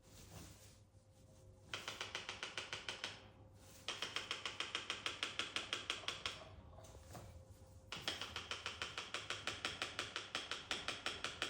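A parrot tapping rapidly on a hard object, about five sharp taps a second, in runs with short pauses.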